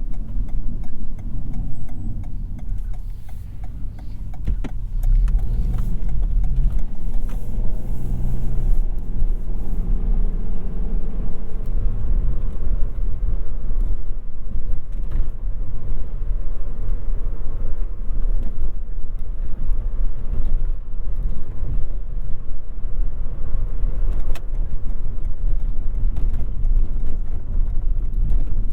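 Toyota Yaris 1.5 hybrid being driven in town: a steady low road and tyre rumble, with a faint engine tone that rises and falls for several seconds a few seconds in.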